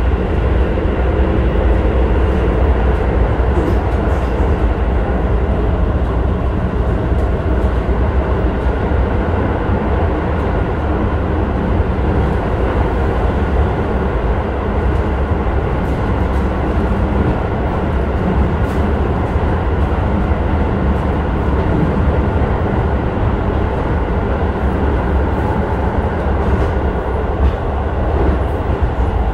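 Keisei 3000 series electric commuter train with Toyo IGBT-VVVF control running, heard from inside the passenger car: a steady rumble of wheels on the rails.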